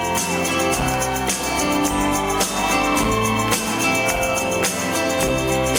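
Live band playing an instrumental passage of a country song: drums keeping a steady beat under bass and guitars, with a lead guitar bending notes.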